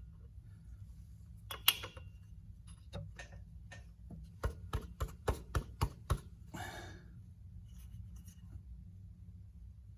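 Metal tool and part knocks: a loud click, then a quick run of about eight sharp knocks, and a brief scrape. These are hand tools at work while a part is fitted at the pulley on the front of the tractor engine.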